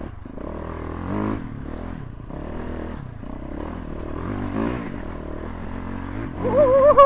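Yamaha YZ450F dirt bike's single-cylinder four-stroke engine revving in repeated throttle bursts, pitch rising and falling several times, with the loudest, highest rev near the end.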